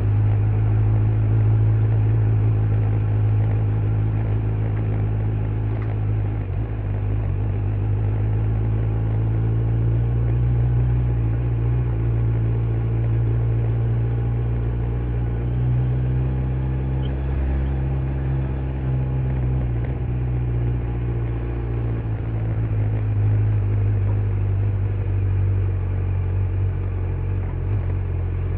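Kawasaki Z900 inline-four engine with stock exhaust running at steady, moderate revs, its pitch rising and falling gently in the middle as the throttle changes.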